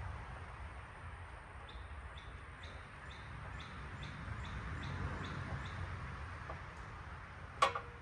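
A bird chirping a quick run of short, high, falling notes, about two or three a second, over a steady low background rumble. A sharp click near the end.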